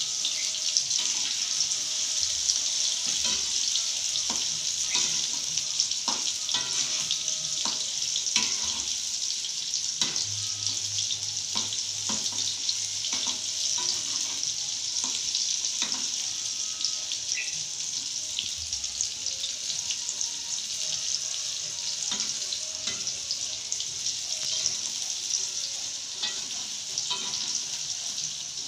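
Tofu cubes sizzling steadily in a seasoned sauce in a wok over a gas flame, with frequent short clicks and scrapes of a metal spatula against the wok as they are stirred.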